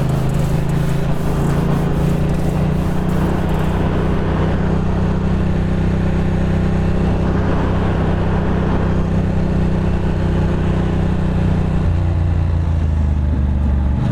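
Motorcycle engine running steadily at an easy cruise, with wind rush over it; the engine note shifts about twelve seconds in.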